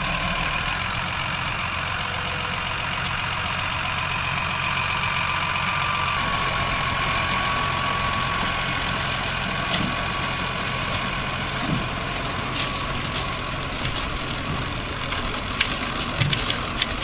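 Tractor engine running steadily while driving a mounted potato harvester, with a steady high whine from the machinery. Scattered clicks and knocks come in over the second half, thickest near the end.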